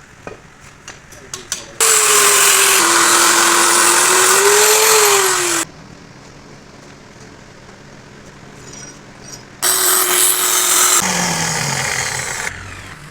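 A handheld power tool running in two loud bursts, about four seconds and then about three seconds long, with a hissing, grinding noise over a motor whine that dips and rises in pitch. A few light knocks come before the first burst.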